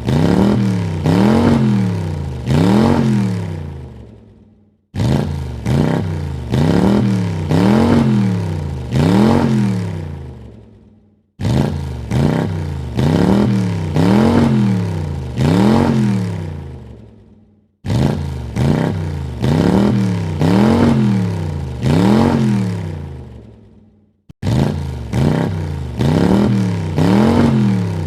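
Car engine revved in about four quick blips, each a rising then falling pitch, then fading away. The same burst repeats about every six and a half seconds, four times over.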